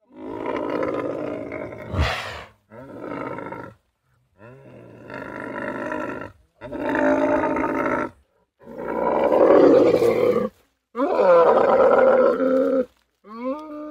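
Camel calling: a series of about seven rough, drawn-out calls, each one to two seconds long, with short silences between.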